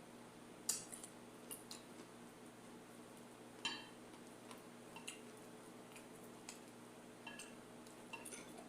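Faint, scattered clicks and light taps of eating: utensils and food handled at the table, over a low steady hum.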